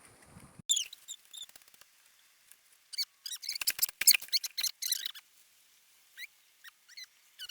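High-pitched animal chirps and squeaks: a few scattered early on, then a quick dense flurry in the middle, then a few spaced calls near the end.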